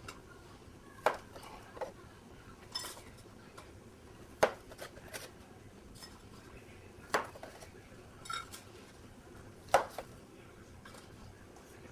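Scattered clinks and knocks of a knife and metal muffin tin as rolled crescent-roll dough is cut into rounds and set into the tin, about eight sharp taps spaced irregularly.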